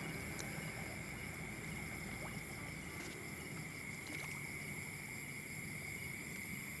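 A steady high-pitched drone over faint background noise, with a few faint clicks.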